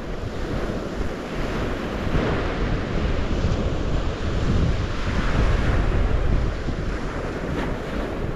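Waves washing on the St. Lawrence shore, with wind buffeting the microphone in a low rumble. The sound swells louder about two seconds in and eases slightly near the end.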